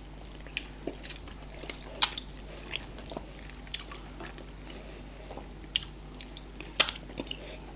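Close-miked mouth sounds of eating fufu with okra soup and meat: scattered wet smacks and clicks of chewing and biting, the sharpest near the end, over a low steady hum.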